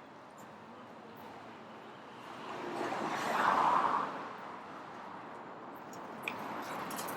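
Street traffic noise, with a car passing close by: its tyre and engine noise swells and fades a few seconds in.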